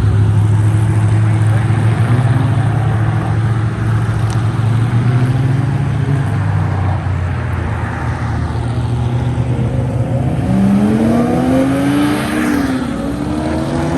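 Car engines running loud with a steady low drone. About ten seconds in, one car revs up as it accelerates away, its pitch rising for a second or two and then dropping off.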